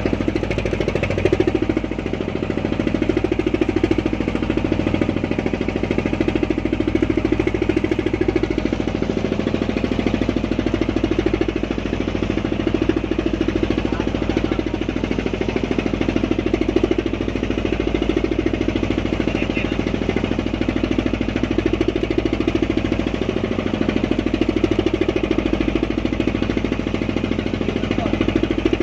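A small fishing boat's engine running steadily with a fast, even knocking beat.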